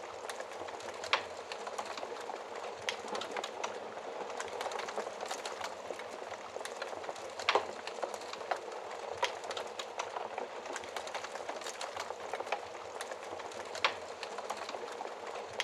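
Fire in a fireplace crackling: a steady hiss with dense small crackles and a few louder sharp pops, the loudest about seven and a half seconds in.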